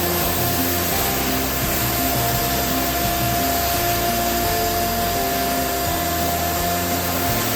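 Electric balloon pump running steadily, a loud even rush of blowing air.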